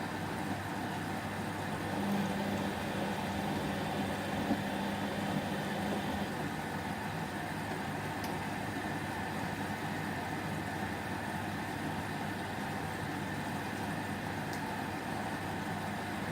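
Whirlpool washing machine running a 30° delicate wash cycle, a steady machine hum. A motor tone comes in about two seconds in and stops about four seconds later, as the drum turns.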